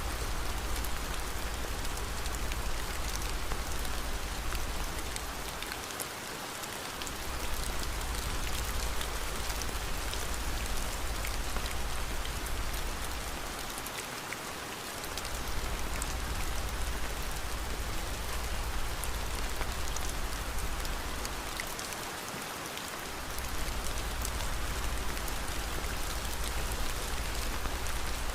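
Steady rain falling, an even hiss with scattered sharp ticks, over a low rumble that dips briefly about every eight seconds.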